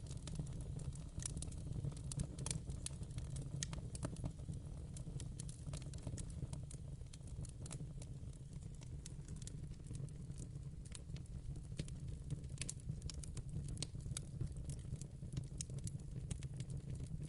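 Wood fire burning in a fireplace, a steady low rumble of flames with frequent irregular crackles and pops.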